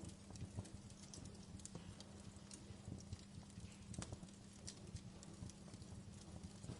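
Wood fire crackling: irregular sharp pops and snaps over a low steady hiss, with one stronger pop about four seconds in.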